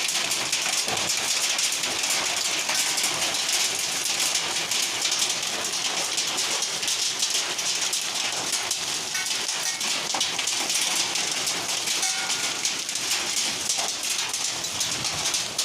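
Heavy hailstorm: hailstones and rain pelting down in a dense, steady clatter of countless small hits.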